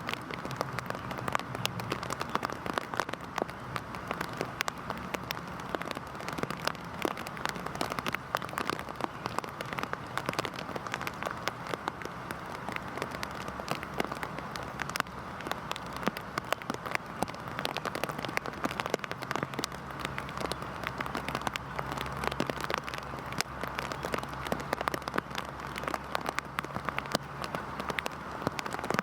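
Heavy rain falling steadily: a dense patter of individual drops over an even hiss.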